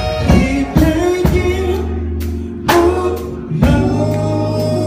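Gospel music with singing: a voice over held low notes and chords, punctuated by a few sharp hits.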